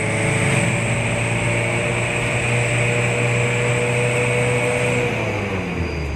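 Mitsubishi L300 pickup's diesel engine pulling under way at steady revs. The engine note drops about five seconds in as the revs fall.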